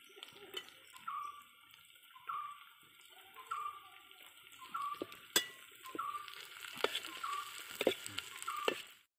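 Chopped tomato frying with onions in an aluminium pot over a wood fire, a steel spatula stirring and scraping with light sizzling and a few sharp metal clinks on the pot from about halfway on. A short high note repeats about once a second in the background.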